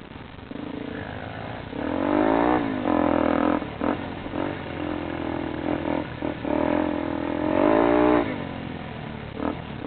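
Motorcycle engine revving several times, its pitch climbing, holding and dropping back between revs.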